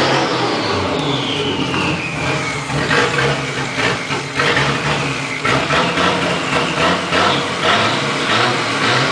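Toyota 7M-GTE turbocharged inline-six in a 1990 Toyota pickup, running roughly and kept alive by repeated snaps of the throttle. It will not hold an idle and wants to stall without gas. A whine falls in pitch over the first couple of seconds.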